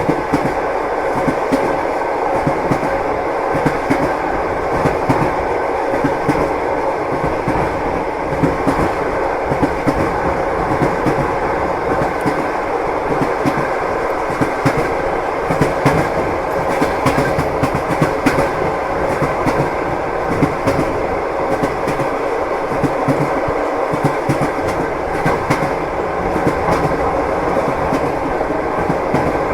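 Passenger train running steadily, heard from inside the carriage: a continuous rumble with the wheels clacking over the rail joints again and again.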